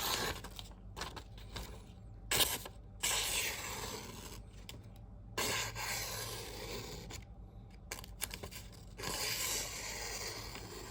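Freshly sharpened CPM 4V steel blade of a Spyderco Native 5 slicing through newspaper in several hissing strokes of a second or two each. The edge cuts clean with no catch.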